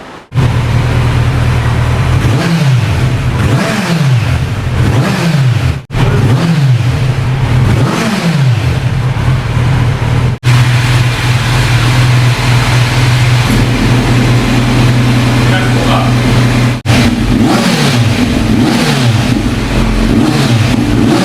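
Kawasaki Z900's inline-four running through a newly fitted Arrow slip-on exhaust, idling between repeated throttle blips that rise and fall about every second and a half. The sound breaks off sharply a few times.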